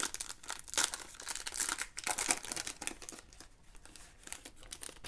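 Foil wrapper of a trading-card pack crinkling and tearing as it is opened by hand. The rapid crackles are dense at first and thin out over the last couple of seconds.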